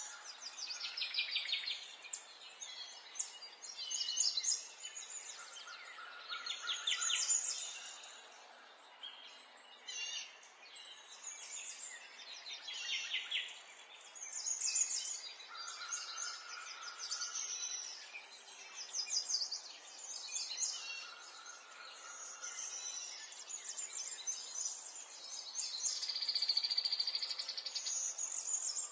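Several songbirds singing at once, overlapping high phrases of fast trills, some falling in pitch, with a short held whistle now and then from a lower-pitched bird.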